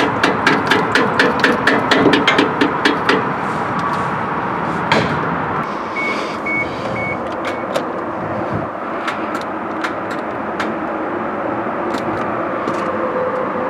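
Quick light hammer taps on a starter motor, about four a second, lasting three seconds. The starter gets 12 volts at its solenoid but won't turn, so it is being struck to free it. A single knock follows, then four short high beeps, then scattered clicks.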